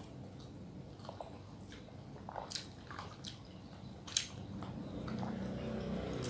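Close-miked eating sounds: wet chewing and mouth smacks with a few sharp clicks. Near the end a low rumbling background noise rises underneath.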